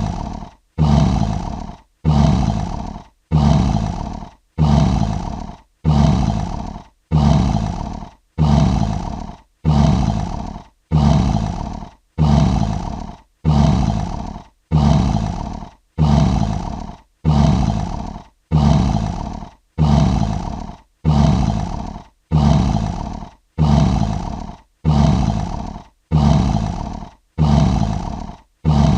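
Lion roaring in short identical calls repeated about once a second, each starting loud and fading away: a looped lion roar sound effect.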